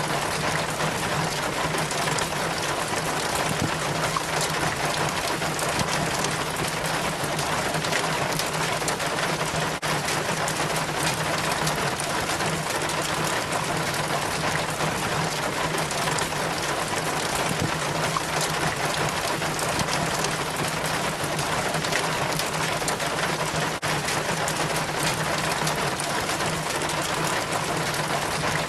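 Rain water trickling and splashing steadily down a rain chain from the gutter, with a steady low hum underneath.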